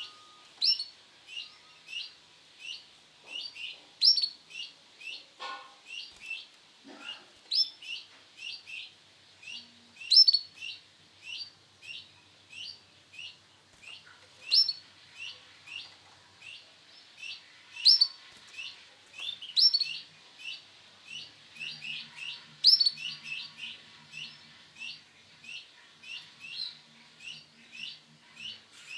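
Male canary chirping: a long, steady run of short, high chirps at about two to three a second, with a louder note every few seconds.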